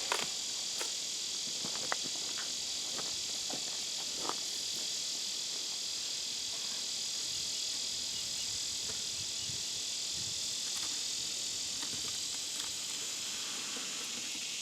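A steady, high-pitched chorus of insects, with a few faint knocks and clicks.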